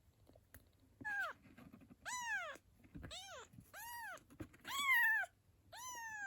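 A kitten meowing repeatedly, six high-pitched calls about a second apart, each rising and then falling in pitch.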